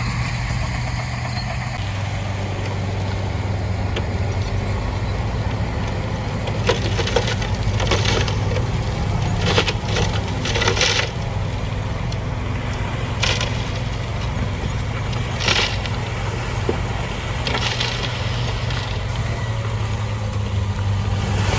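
Heavy diesel earthmoving machine running steadily with a low drone, with a series of short crunches of rock and gravel being pushed or dumped, clustered through the middle of the stretch.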